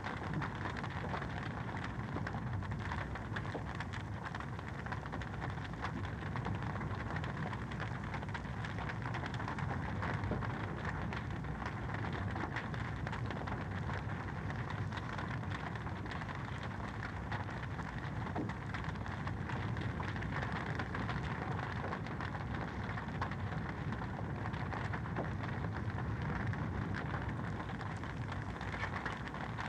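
Wood fire crackling in a fireplace: a steady, dense stream of small pops and snaps over a low rush.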